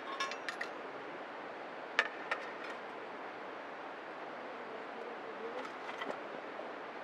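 Light metallic clinks and ticks, a few in small clusters, some ringing briefly, over a steady hiss.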